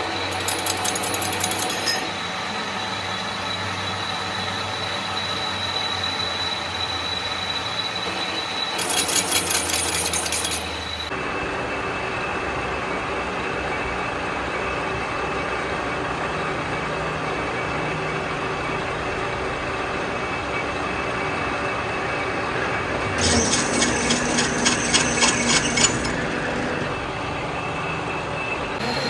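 Steady metalworking machinery running in a workshop, with a changed running sound about a third of the way in. Three bursts of rapid, evenly spaced metallic clicking come at the start, about a third of the way in, and again near the end.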